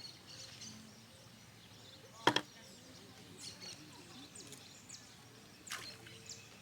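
Outdoor background with faint, scattered bird chirps, broken by a sharp click about two seconds in and a softer one near the end.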